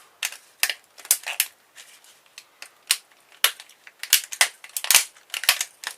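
Sharp metal clicks and snaps from a hand tool working a part loose from a car stereo, coming irregularly and faster toward the end.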